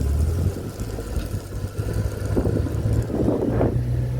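Motorcycle engine running steadily while riding, with wind buffeting the microphone; the engine note rises slightly near the end.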